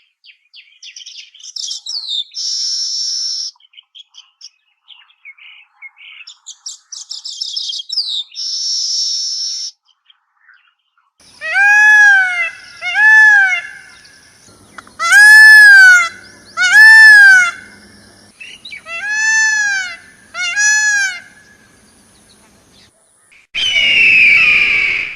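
Birds calling: a run of high chirps and fast trills, then loud arched calls repeated in pairs, several times over. Another loud call starts near the end.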